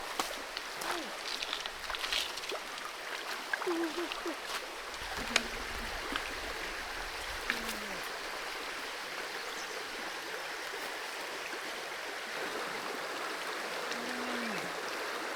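Creek water running steadily over rocks, with a few sharp clicks and a few short low hums on top.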